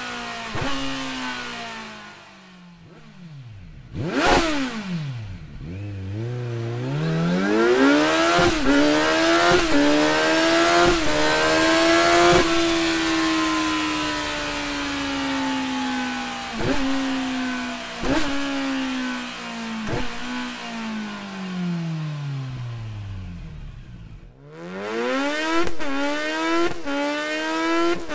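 Kawasaki Z900 inline-four with an Akrapovic exhaust accelerating and slowing, its pitch climbing and sinking several times. Sharp short cracks come at intervals through the pulls.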